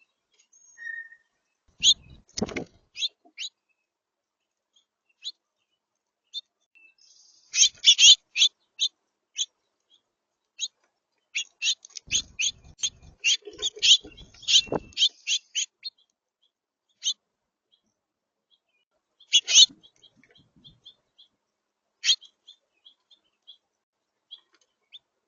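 Birds at a backyard feeder: trains of short, sharp chip notes and clicks, in scattered bursts with the busiest run in the middle, and a few louder knocks against the feeder.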